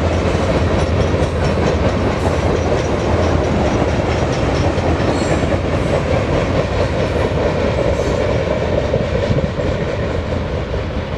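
BNSF freight train cars rolling by on the rails: a steady rumble of steel wheels on track with occasional clacks over rail joints.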